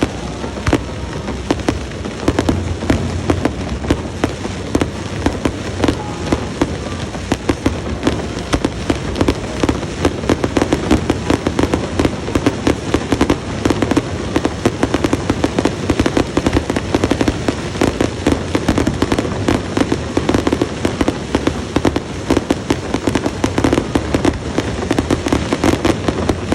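Fireworks display going off in a dense, continuous barrage of rapid bangs and crackles with no pause.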